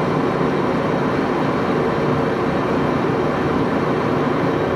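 Axelson lathe running with a steady, even mechanical noise.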